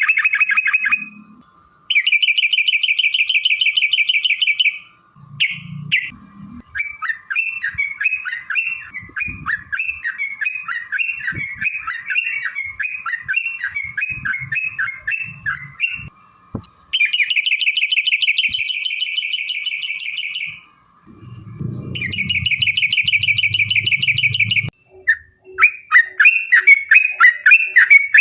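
Yellow-vented bulbul (trucuk) singing: long, very fast rolling trills of about three seconds each, alternating with bubbly chattering phrases.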